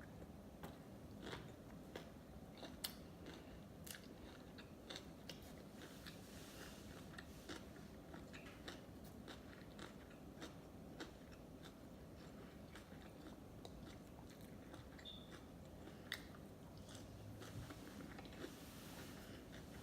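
Close-miked chewing of sushi: a quiet, steady run of small mouth clicks and crunches.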